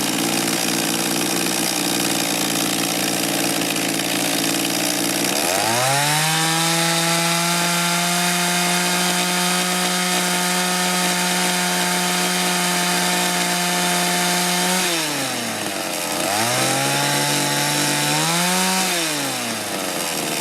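Mantis mini tiller's two-stroke engine running near full throttle as its high-speed carburetor mixture screw is adjusted. Its note rises about five seconds in and holds steady, drops and picks up again about fifteen seconds in, then climbs briefly and falls near the end.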